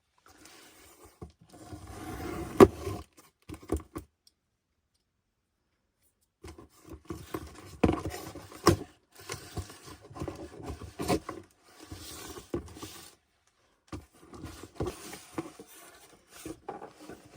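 A box being opened and unpacked by hand: irregular scraping and rustling with sharp clicks and knocks. It stops dead for a couple of seconds near the start, then resumes.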